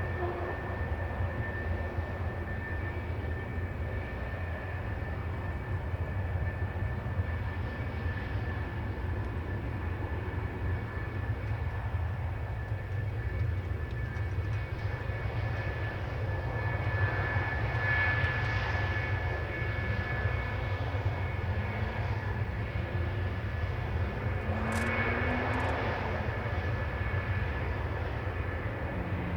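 F-4 Phantom jet aircraft with J79 turbojet engines, a steady rushing engine noise with a high whine. It swells louder twice, about 18 seconds in and again about 25 seconds in.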